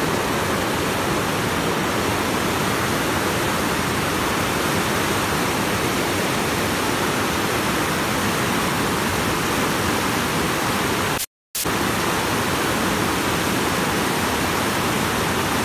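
River water rushing, a steady noise that cuts out completely for a moment about eleven seconds in.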